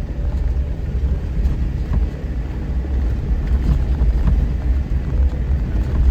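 Jeep driving slowly over a rough, washed-out dirt trail: a steady low rumble from engine and tyres, with a few light knocks and rattles as it goes over the bumps.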